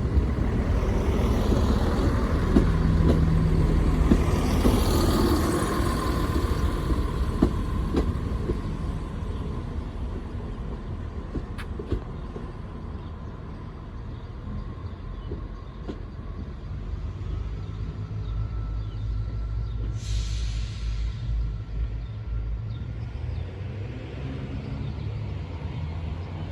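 Class 170 Turbostar diesel multiple unit pulling away from the platform, its diesel engines loud at first, then fading over the first ten seconds or so as it leaves. In the second half another diesel train's engine rumble builds, with a short hiss of air about twenty seconds in.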